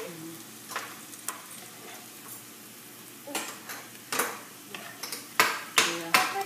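Aloo chana dal tikkis frying in hot oil, a steady sizzle, with a utensil knocking and scraping against the pan several times, most often in the last two seconds.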